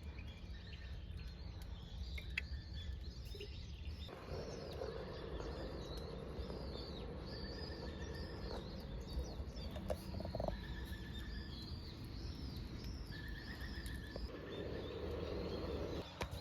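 Small birds chirping and calling repeatedly over a low, steady background rumble.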